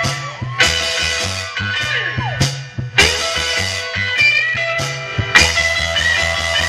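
Live rock-and-roll band playing an instrumental passage: electric guitar with bending notes over bass and drums. A loud chord is struck about every two and a half seconds.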